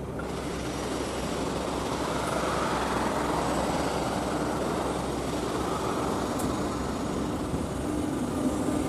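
SNCF BB 22200 electric locomotive and its coaches rolling slowly past on arrival. The steady rumble of the train swells as the locomotive goes by, and a low hum comes in near the end.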